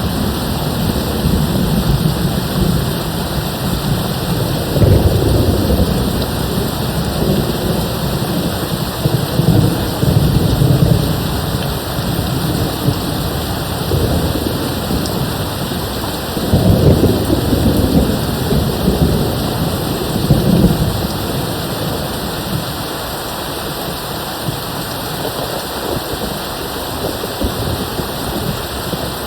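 Steady heavy rain with distant thunder rumbling several times, the rumbles dying away in the last few seconds while the rain goes on.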